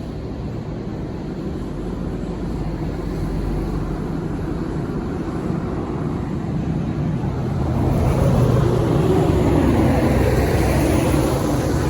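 GE C44-9W (Dash 9) diesel-electric locomotive approaching with its 16-cylinder engine running, a steady low drone that grows louder and nearer, loudest from about two-thirds of the way in.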